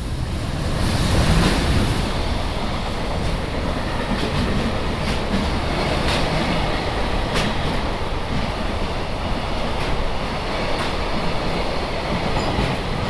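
Two freight trains hauled by EH500 electric locomotives passing each other through a station at speed. A loud rush builds to a peak about a second and a half in, then settles into a steady rumble of container wagons, with sharp clicks of wheels crossing rail joints every second or so.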